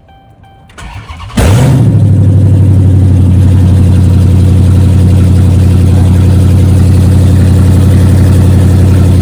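Car engine cold-started through headers with no catalytic converter: the starter cranks briefly and the engine catches about a second and a half in, then settles into a loud, steady idle with a fast even pulse.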